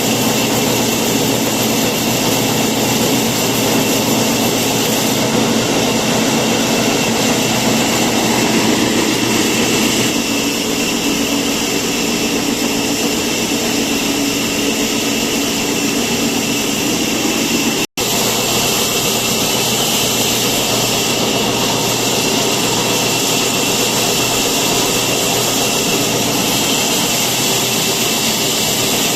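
Steady, loud running machine noise that stays unchanged throughout, broken once by a very short dropout about two-thirds of the way through.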